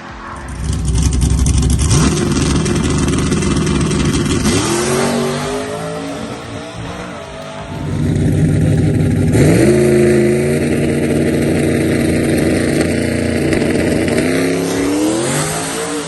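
Full-size pickup truck engines at full throttle down a drag strip, the pitch climbing and then dropping at each gear shift. A second surge of engine noise begins about eight seconds in.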